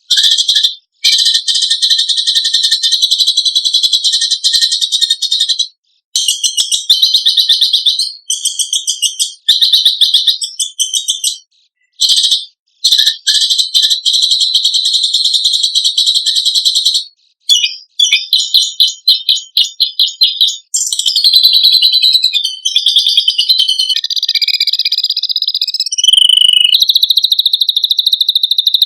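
Songbird singing very rapid, high-pitched buzzing trills in long runs of several seconds with brief breaks between them, the shrill, electronic-like 'tembakan besetan' material used to train songbirds.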